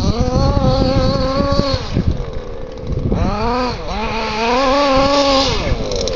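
FG Marder Beetle 1/5-scale RC buggy's tuned 29cc stroker two-stroke engine with a tuned pipe, running at high revs as the buggy accelerates. It eases off about two seconds in, climbs again a second later, dips briefly, holds high again, and drops off near the end.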